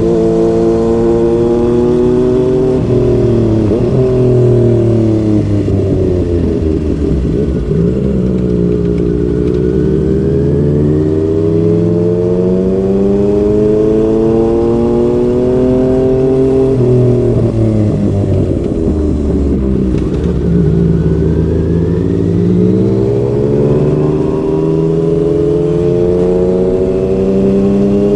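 Yamaha MT-09's three-cylinder engine through a Yoshimura R55 slip-on exhaust, heard from the rider's seat on the move. The engine note falls and climbs several times as the throttle is rolled off and opened again, with long steady rises in pitch under acceleration.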